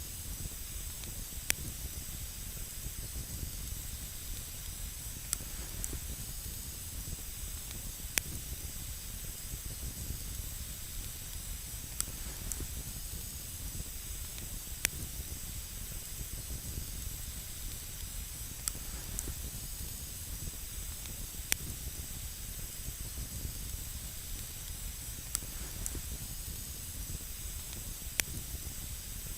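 Campfire burning with a steady hiss, broken every couple of seconds by single sharp crackling pops.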